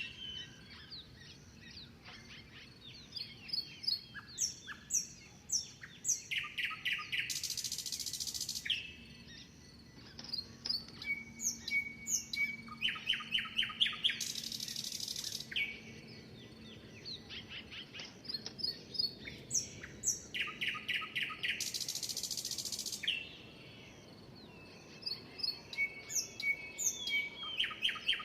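Songbirds singing: one bird repeats a song of quick chirps running into a rapid trill and a harsh buzzy note, about every seven seconds.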